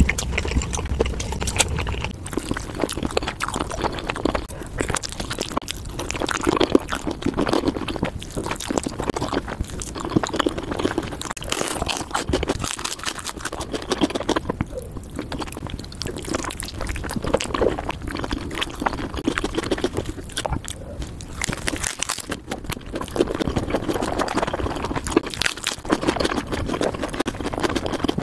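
Close-miked wet chewing and lip-smacking of rotisserie chicken being eaten: a continuous run of small sticky clicks and squelches.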